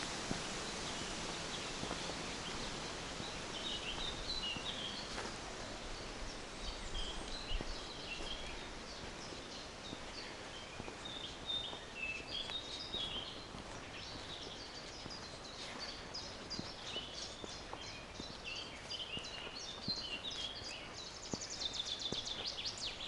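Songbirds singing: repeated short chirping phrases, with a fast high trill near the end, over a steady outdoor hiss and a few soft footsteps.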